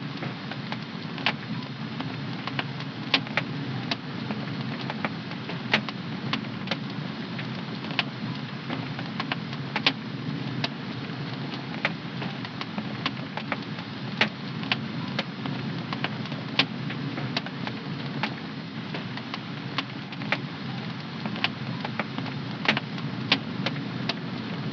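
Wood fire in a home fireplace crackling: irregular sharp pops and snaps, a few a second, over a steady low rush of the burning flames.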